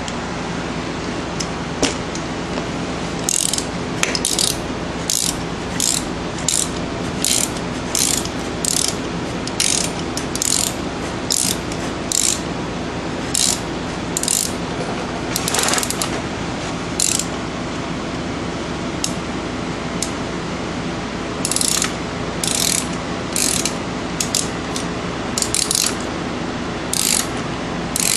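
Hand socket ratchet clicking in short repeated strokes, about one or two a second, as a brake caliper bolt is run in with a 7mm Allen socket; the strokes pause for a few seconds past the middle, then resume. A steady hum runs underneath.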